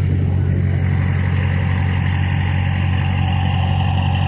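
A vehicle engine, most likely one of the show trucks, idling steadily with an even low rumble that neither rises nor falls.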